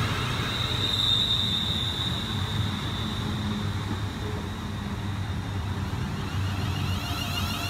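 ScotRail Class 380 electric multiple unit running out along the platform: a steady rumble of wheels on rails, with a thin high whine in the first seconds that fades as the train draws away.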